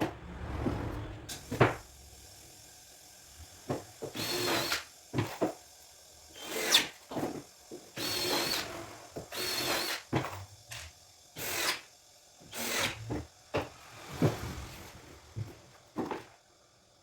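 Cordless drill-driver in short bursts, driving screws into MDF boards, with knocks from handling the boards between bursts.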